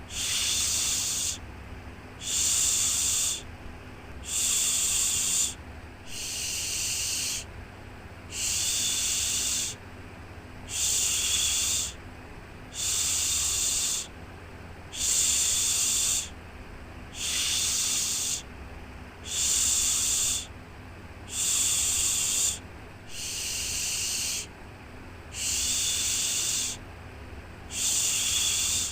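Rhythmic shushing for soothing a baby: a long breathy 'shhh' about every two seconds, each lasting a little over a second, with a softer steady hiss between them.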